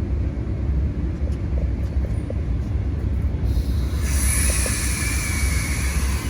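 Amtrak passenger train standing at the platform, running with a steady low rumble. About three and a half seconds in, a loud hiss starts up over it.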